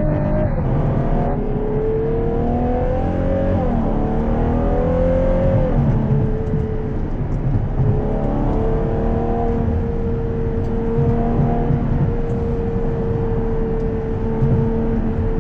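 Ferrari Purosangue's 6.5-litre naturally aspirated V12 heard from inside the cabin, pulling up in pitch and dropping back at gear changes a few times, then holding a steady pitch from about halfway through.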